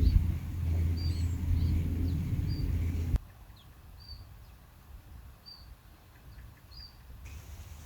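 A small bird chirping repeatedly, short high calls about once a second. A loud low rumble runs under the first three seconds and cuts off abruptly.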